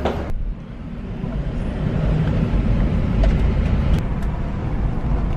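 Steady low rumble of a car on the move, with a couple of light clicks about three and four seconds in.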